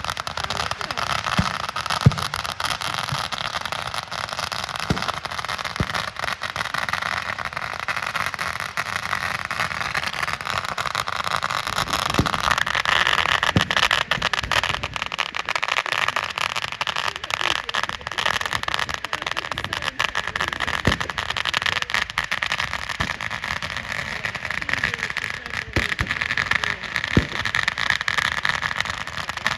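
Fireworks going off: continuous dense crackling with occasional sharper bangs, the loudest about two seconds in.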